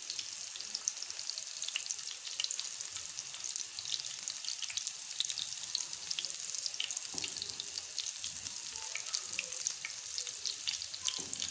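Gram-flour-battered potato balls shallow-frying in hot ghee on a flat tawa griddle: a steady sizzle dotted with many small crackles and pops.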